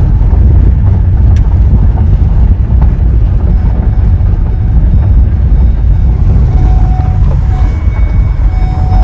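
Steady, loud low rumble of a vehicle on the move, with wind buffeting the microphone.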